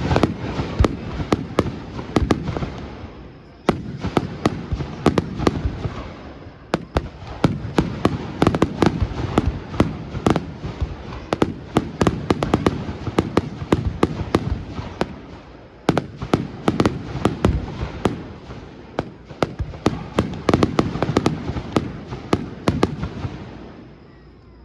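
Aerial fireworks display: rapid volleys of shell bangs and crackling, coming in several waves that each start abruptly, then dying away just before the end.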